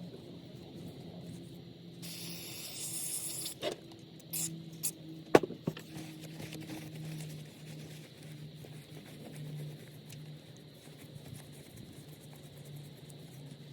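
Carburetor parts being worked on at the bench: a brief hiss of spray about two seconds in, then a few sharp clicks of small metal parts, the loudest about five seconds in.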